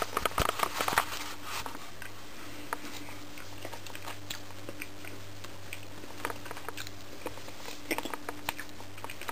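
A person chewing a mouthful of migas close to the microphone: small moist clicks and crunches, busiest in the first two seconds, then only now and then.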